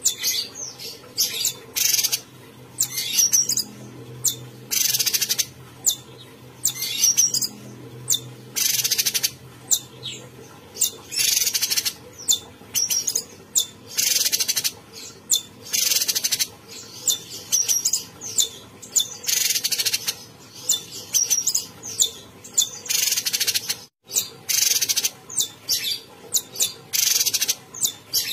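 Cucak cungkok songbird singing hard and continuously: short, harsh, high chattering phrases with a few clear whistled notes, repeating every second or two with brief pauses between them.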